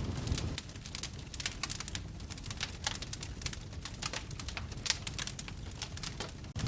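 Wood fire crackling in a fireplace: irregular sharp pops and snaps over a low rumble of the flames, cutting out for an instant near the end.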